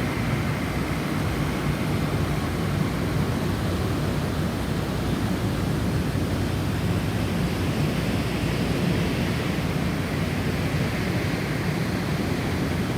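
Snowstorm wind blowing steadily, a deep rushing rumble with a higher hiss that eases off in the middle and swells again near the end.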